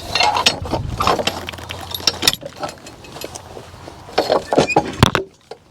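Metal harness hardware and chains clinking and jangling while draft horses are hitched, with many sharp clicks and knocks.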